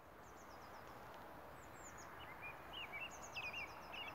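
Small birds chirping in short falling notes, some in quick runs, busier in the second half, over a faint steady outdoor background hiss.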